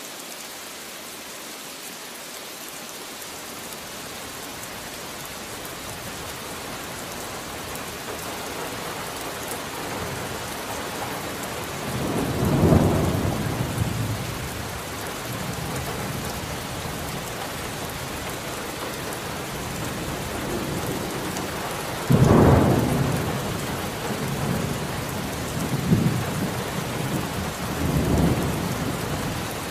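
Steady rain with thunder. The rain grows louder over the first ten seconds, then thunder rumbles in about twelve seconds in, with a sharper, louder clap near twenty-two seconds followed by a couple of smaller rolls.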